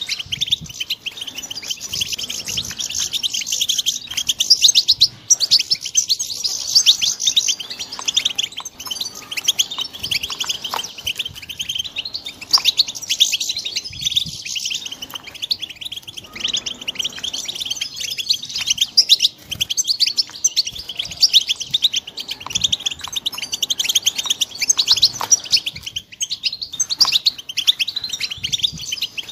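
European goldfinch chicks twittering and chirping without pause: a dense run of rapid, high chirps.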